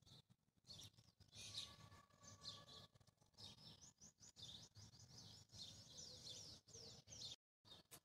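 Small birds chirping faintly: many quick, overlapping chirps that slide downward in pitch, with the sound dropping out entirely for a moment near the end.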